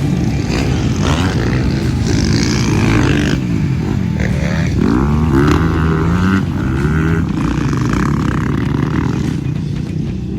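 Motocross dirt bike engine revving up and down repeatedly as it rides the track, its pitch rising on the throttle and dropping off between rises, under rough wind and riding noise.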